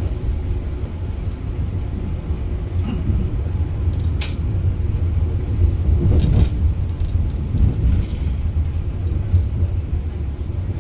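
Argo Bromo Anggrek passenger train running along the track, heard inside the coach as a steady low rumble. A sharp high click comes about four seconds in, and a few knocks follow around six seconds.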